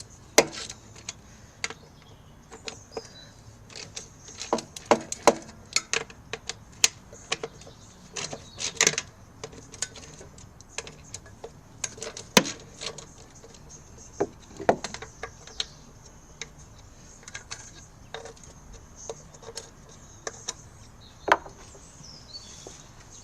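Irregular sharp metallic clicks and knocks of hand tools and engine parts being handled, a few of them loud.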